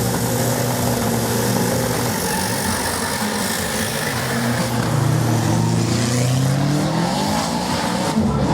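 Drag-racing car engines accelerating hard, their pitch rising as they pull away.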